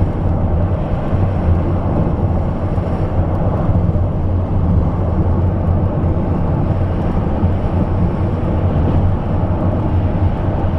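A car driving at speed, heard from inside: a steady low rumble of road and engine noise.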